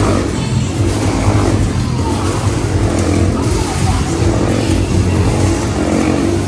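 Motorcycle engines running and revving, their pitch rising and falling over a steady low drone.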